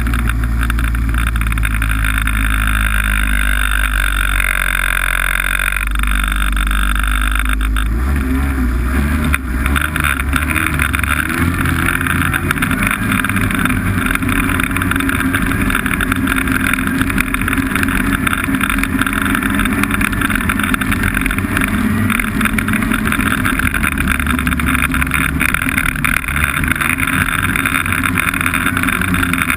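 Snowmobile engine running steadily under way, with wind noise on the microphone; the low drone turns rougher about eight seconds in.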